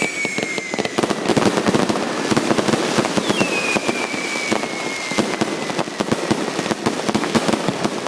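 Fireworks going off: dense crackling and popping, with high whistles that slide slowly down in pitch, one fading in the first second and another starting about three seconds in and lasting about three seconds.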